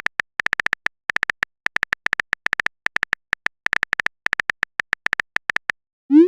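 Phone-keyboard typing sound effect: quick, irregular runs of short clicky taps, as of a message being typed. Just before the end comes a short rising 'bloop', a message-sent tone.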